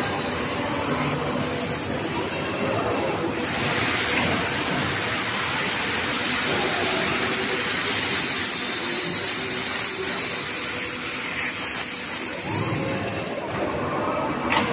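Grooving machine running, giving a steady, loud hiss.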